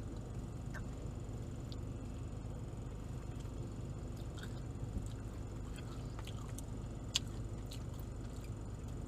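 A person chewing and eating: scattered soft clicks and smacks of the mouth, the loudest about seven seconds in, over a steady low hum.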